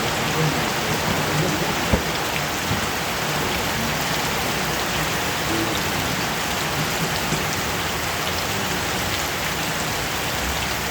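Steady rain falling, with one sharp knock about two seconds in.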